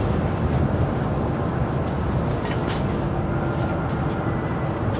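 Mercedes-Benz double-decker coach under way, heard from inside the cabin: a steady low engine drone and road rumble.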